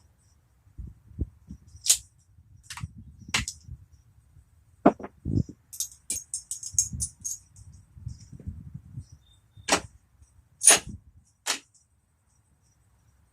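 Scattered sharp metallic clicks and clinks, with a brief jangling rattle about six seconds in: hand tools and metal parts being handled during work on the starter.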